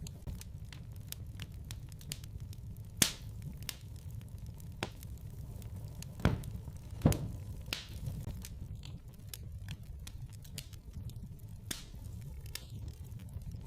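Wood fire in a fireplace crackling, with scattered sharp pops over a low steady rumble of the flames; the loudest pops come about three seconds in and twice more a little after the middle.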